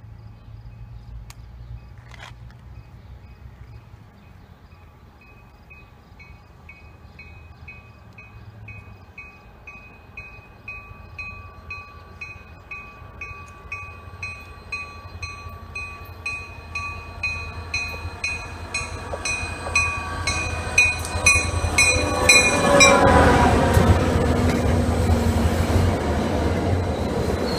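MBTA commuter train approaching and passing: a bell rings about twice a second, growing louder as the train nears, then stops. Near the end the diesel locomotive goes by loudly with a falling pitch, followed by the rumble of the coaches rolling past.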